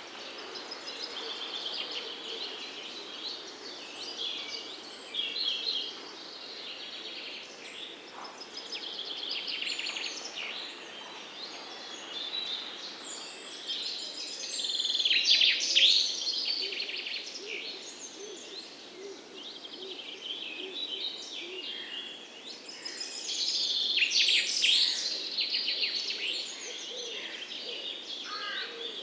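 Several songbirds chirping and singing together, a mix of quick chirps and trills, with two louder flurries of song partway through and near the end.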